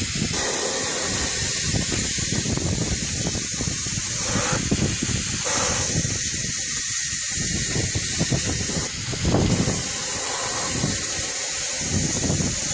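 Steady spray hiss as a coating is sprayed onto a truck headlight lens.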